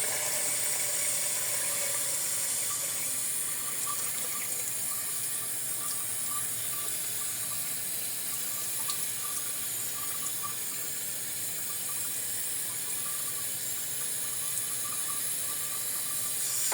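Water running steadily from a tap, filling a container.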